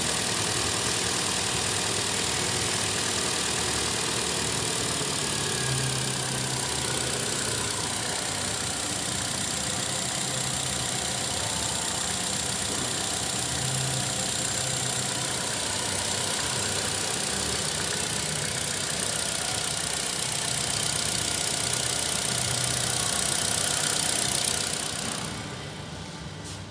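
Holden Cruze's 1.8-litre Ecotec four-cylinder engine idling steadily with the bonnet open. The sound drops away sharply about 25 seconds in.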